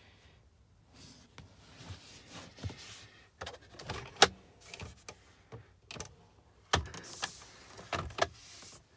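Irregular clicks, taps and rustling from handling around a car's interior, with a sharp click about four seconds in and more near the end.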